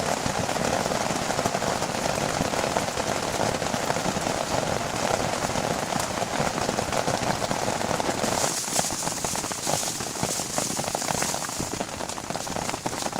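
Heavy rain falling, a steady dense patter of drops on a surface; about eight seconds in the patter turns brighter and hissier.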